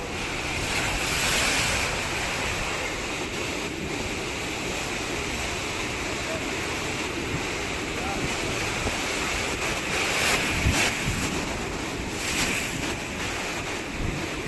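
Ocean surf washing onto a beach, with wind buffeting the microphone. The waves swell louder about a second in, around ten seconds and again near twelve seconds.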